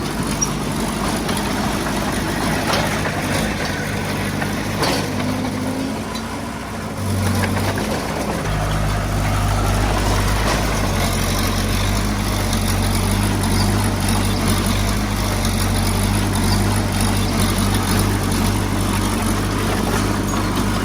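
Heavy-equipment diesel engine running steadily, dipping briefly and then working harder with a heavier low rumble about eight seconds in.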